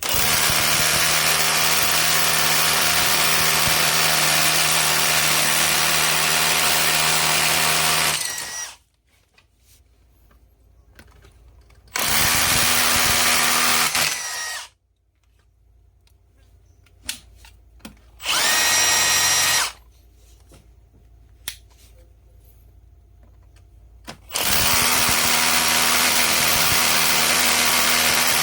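Makita DHR182 cordless rotary hammer running on its final test after its broken 625 gearbox bearing was replaced. It runs steadily for about eight seconds and stops, runs again for a couple of seconds, gives one short burst, and runs again near the end. There are a few sharp clicks in the pauses.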